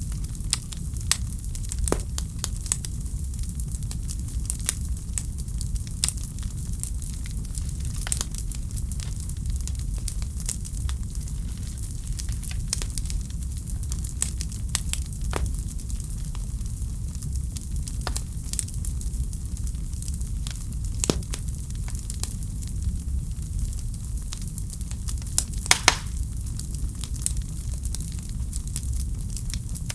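Wood fire crackling in a fireplace: a steady low rumble and hiss with frequent sharp pops and snaps. The loudest is a quick cluster of pops near the end.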